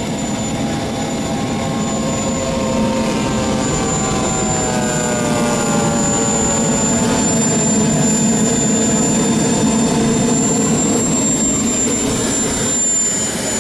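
Radio-controlled model aircraft engine running steadily with a high thin whine over it; about halfway through, its pitch slides slightly down.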